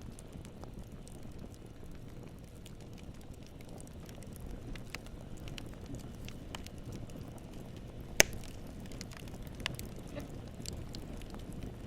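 Campfire burning: a steady low rumble of flames with frequent small crackles, and one loud sharp pop about eight seconds in, followed by a smaller pop a second or two later.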